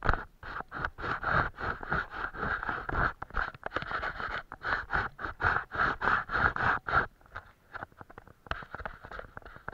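A paintbrush scrubbing on watercolour paper in quick, repeated scratchy strokes, several a second, which thin out to occasional strokes about seven seconds in.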